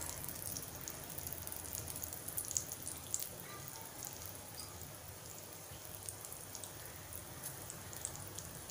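Floured suran (elephant-foot yam) slices shallow-frying in a little oil on a flat griddle over a low flame: faint, irregular crackling and sizzling.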